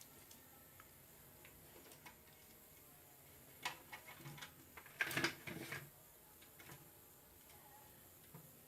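A few faint clicks and light knocks of the mixer grinder's motor and small parts being handled, with a short cluster about five seconds in, over quiet room tone. The motor is not running.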